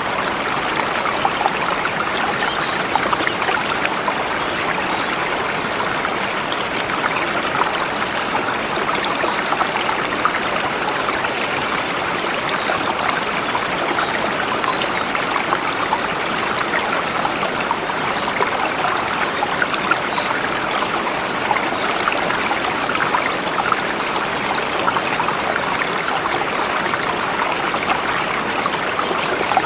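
Forest river flowing over rocks, a steady rushing and babbling of water with fine splashing detail.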